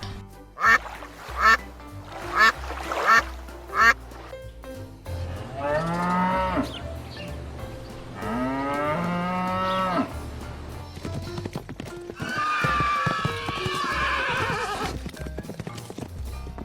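A series of animal calls over background music: about five short, sharp calls in the first few seconds, then two long calls that fall in pitch, and a longer, rougher call later.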